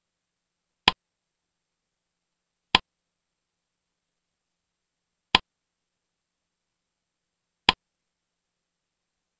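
Four short, sharp clicks, roughly two seconds apart, with dead silence between them. Each click marks a step of the slideshow animation as the next word comes up.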